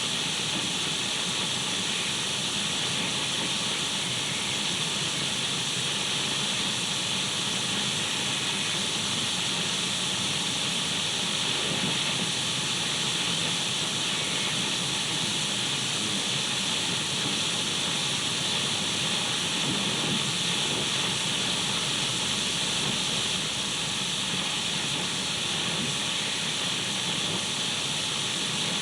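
Radio static: a steady hiss of untuned radio noise, even and unchanging, brightest in the upper middle.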